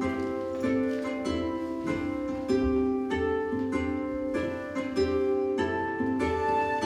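Instrumental music: a plucked string instrument playing a slow, even melody of ringing notes.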